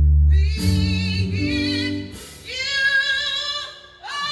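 Live band music: a singer holding long notes with vibrato, over a deep sustained bass note that stops about half a second in.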